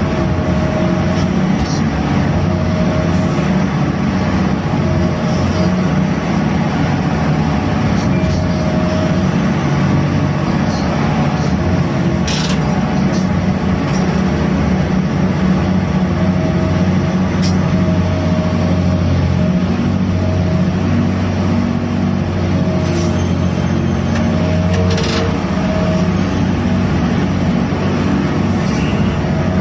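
Heavy diesel machinery of a gut ship's grab crane running steadily during unloading, with a higher tone that comes and goes every few seconds and a few sharp clicks.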